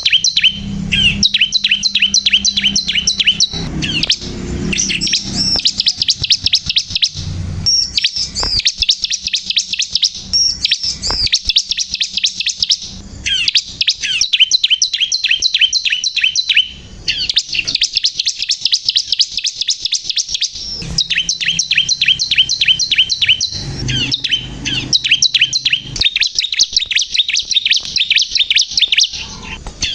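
Bar-winged prinia (ciblek kristal) singing vigorously: long runs of fast, high, rapidly repeated chirping notes, with only brief breaks.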